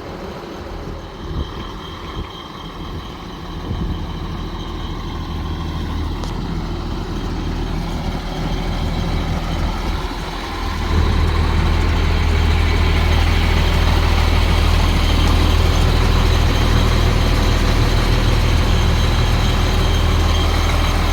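International DT466 inline-six turbo diesel in a 1987 International S1900 dump truck, idling steadily; about eleven seconds in its low drone becomes much louder and stays that way.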